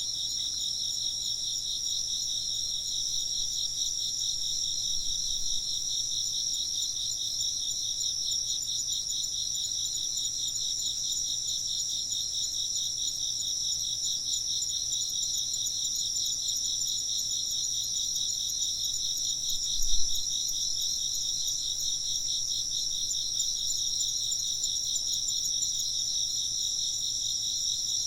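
Steady chorus of chirping insects, a dense, finely pulsing trill that does not let up. A single brief low thump sounds about twenty seconds in.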